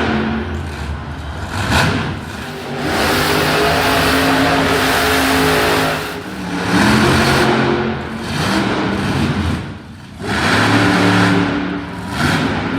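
Monster truck engine revving hard in repeated bursts, with one long full-throttle stretch in the middle and throttle lifts in between.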